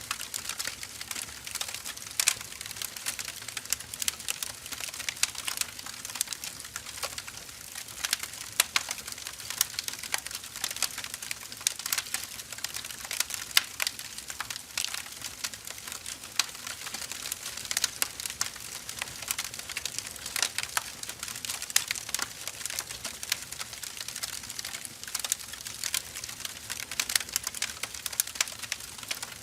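Wood fire burning, with a continuous, irregular crackle of small pops and snaps over a soft hiss.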